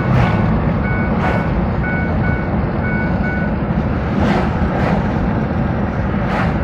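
Pickup truck driving, heard from inside the cab: steady engine and road rumble with a few brief bumps. A short electronic beep repeats about twice a second for the first three seconds or so, then stops.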